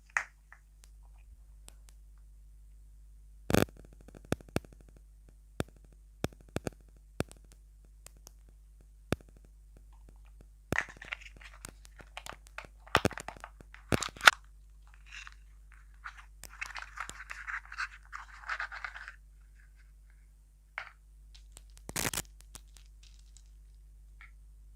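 Close-up eating sounds of crunchy sweets being bitten and chewed, with scattered sharp clicks and taps. There are denser bursts of crunching about halfway through and again near the end.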